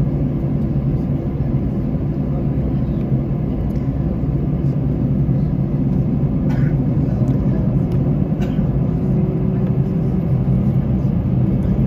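Steady low drone of an airliner's jet engines at idle, heard inside the passenger cabin as the plane waits on the runway before takeoff, with a few faint clicks.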